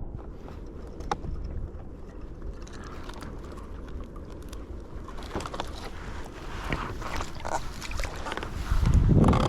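Small knocks and scrapes on a stand-up paddleboard on the sea, growing busier partway through, over a steady low bed of water sloshing, with a louder low rumble near the end.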